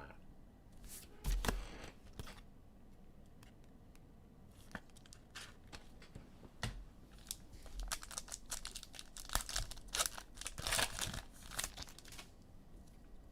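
Foil trading-card pack wrappers being torn open and crinkled. The bursts come about a second in and again in a dense run through the second half.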